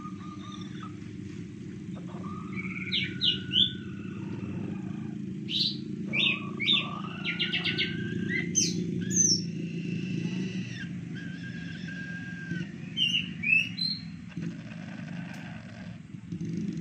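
Small birds chirping and whistling in short bursts of quick pitch sweeps, over a steady low hum.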